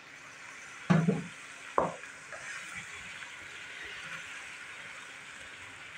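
Chicken pieces and onions frying in hot oil in a wok, a steady sizzle, the chicken's own juices already cooked off. A spatula stirs and knocks in the pan twice, about a second in and again just before two seconds.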